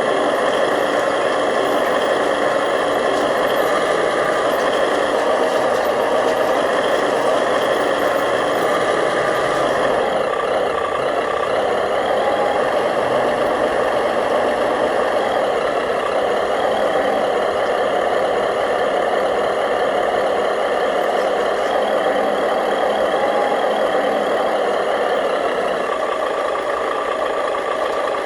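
Remote-control model construction machines (bulldozer and dump truck) running with a steady motor and gear whine. The high part of the sound drops away about ten seconds in.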